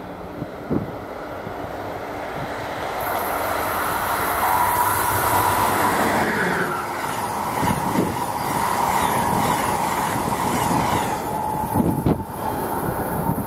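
Passenger train passing at speed: a rushing rail roar builds from about three seconds in, with a steady whine over it, a few sharp clacks of wheels over the rails, and it eases off near the end.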